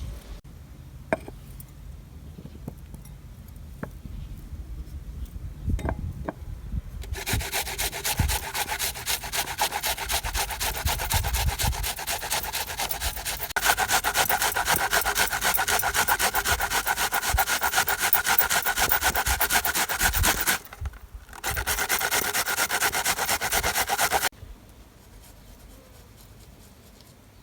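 Fast, steady rhythmic scraping, stroke after stroke, that starts about seven seconds in, pauses briefly, and stops a few seconds before the end.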